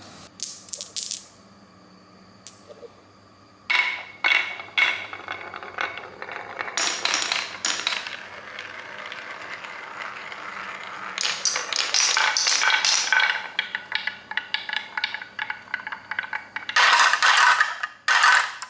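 Small hard objects clinking, rattling and scraping in irregular runs of quick clicks with a slight ringing, loudest near the end.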